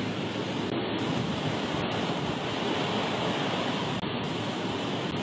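Steady rush of typhoon storm surf and wind, with a momentary drop-out about four seconds in.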